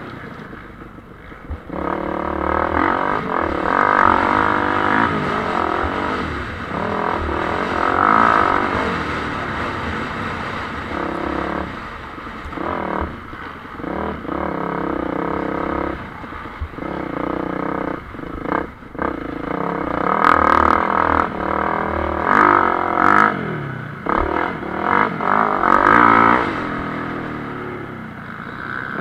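MX1-class motocross bikes racing: engines revving up and down with gear changes as the bikes go round the track. In the second half come quick, repeated surges of throttle with short gaps between them.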